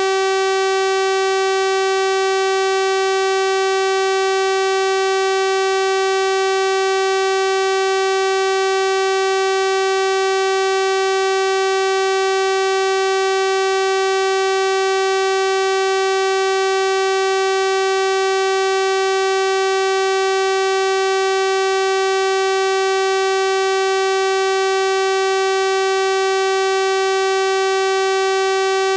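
A synthesized 384 Hz sawtooth wave holding one steady pitch with a bright, buzzy stack of overtones, unchanging in pitch and level.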